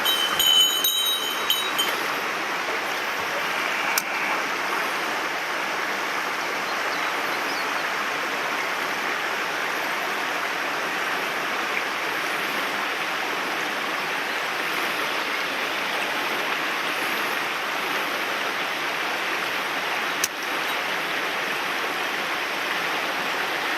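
Mountain stream water rushing and splashing steadily over rocks, a constant even wash of noise.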